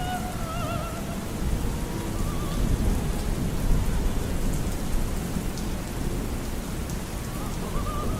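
Steady rain with a low, rolling thunder rumble underneath. A faint operatic singing voice with wide vibrato fades out in the first second and comes back near the end.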